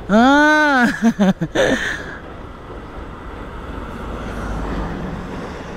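A man's loud drawn-out shout that rises and falls in pitch, then a few short calls, over the steady rumble of a passenger train crossing a long sea bridge; the deep rumble swells about four seconds in.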